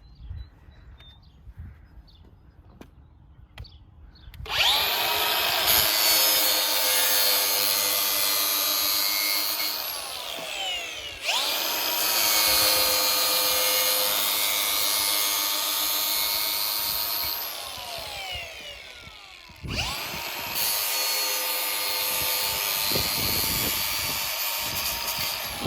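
Milwaukee M18 Fuel cordless angle grinder sharpening the edge of a steel planer knife. It starts after a few quiet seconds and runs in three bursts. The first two each end with a falling whine as the motor winds down.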